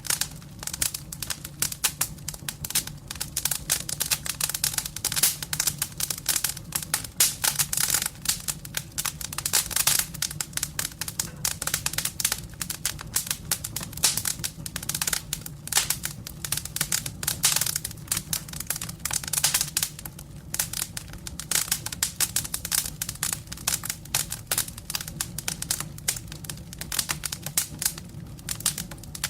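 Firewood burning in a fireplace, crackling and popping in quick irregular snaps over a faint low rumble.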